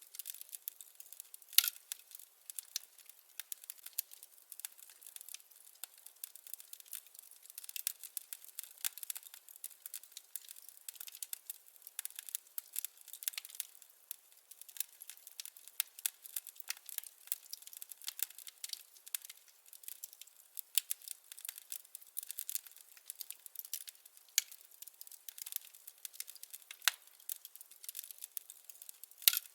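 Burning firewood crackling: a continuous patter of small snaps and pops, with a few louder pops, one about a second and a half in and another just before the end.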